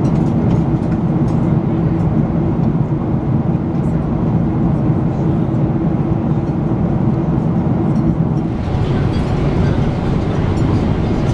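Steady cabin noise of a Boeing 777-300ER in cruise: the engines and rushing airflow make a constant low drone. The tone shifts slightly about eight seconds in.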